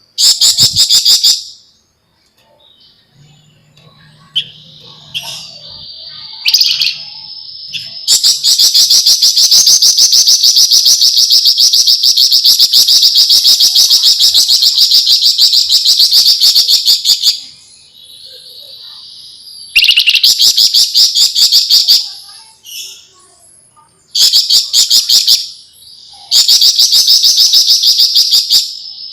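Javan fulvetta (flamboyan) singing a rapid, dense rattling chatter of very fast repeated high notes in long runs, the longest lasting about nine seconds, with short pauses between runs and a few brief whistled notes early on.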